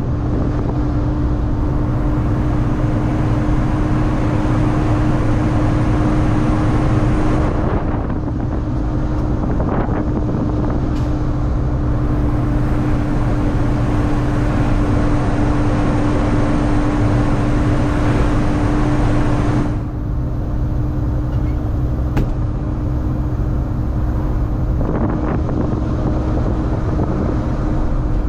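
Semi-truck's diesel engine running steadily on the road, a continuous low drone with a constant hum.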